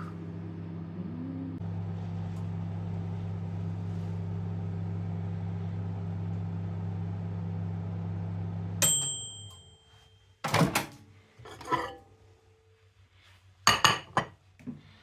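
Microwave oven running with a steady low hum, which cuts off about nine seconds in with a short electronic beep. Several clunks and clinks follow, from the door and a dish being handled.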